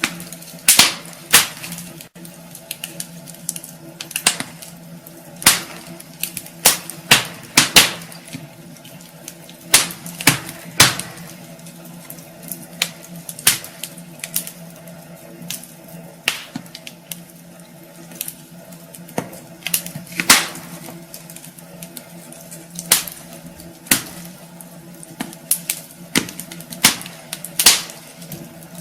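Wood fire crackling in a fireplace: irregular sharp pops and snaps of burning logs, some louder than others, over a faint steady hum.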